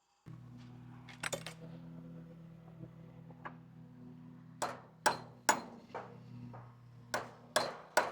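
Hammer blows knocking a piece of board loose: a few light taps, then a run of sharp ringing strikes about half a second apart in the second half, over a steady low hum.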